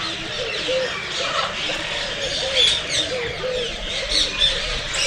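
A chorus of many birds: dense high chirping and tweeting over a steady run of short, low cooing notes repeated about twice a second.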